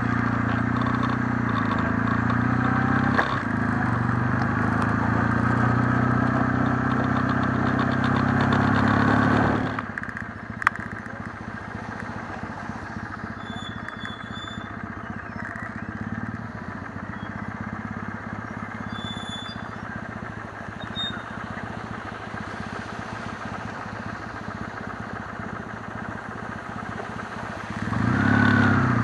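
Kawasaki W650's air-cooled parallel-twin engine running steadily, then cut off abruptly about a third of the way in. A quieter stretch of even background noise with a few short high chirps follows, and the engine comes back near the end with its pitch rising.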